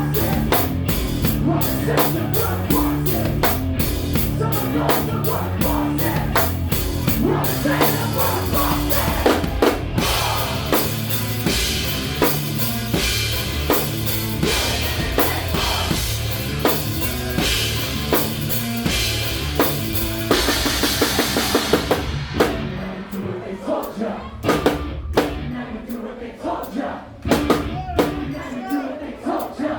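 Live rock band playing, with the drum kit to the fore. Near two-thirds of the way through comes a run of rapid drum strokes, after which the cymbal wash drops away and the band plays separate, sparser hits.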